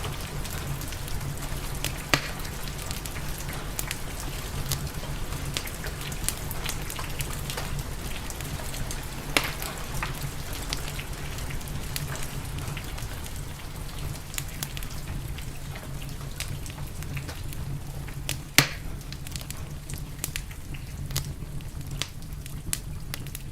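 Steady rain mixed with a crackling wood fire, with scattered sharp pops from the fire, the loudest about eighteen seconds in. The rain hiss thins near the end.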